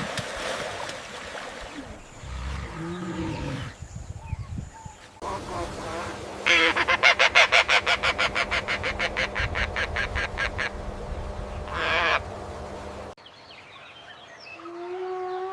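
Animal calls from several clips: a run of rapid, evenly repeated calls at about six a second, lasting some five seconds and the loudest part, then near the end a rising howl begins.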